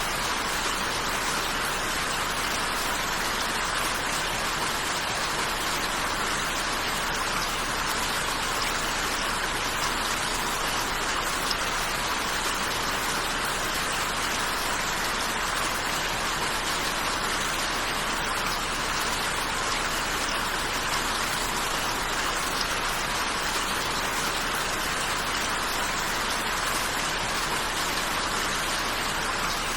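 Steady rain falling, an even, unbroken hiss of drops with no changes.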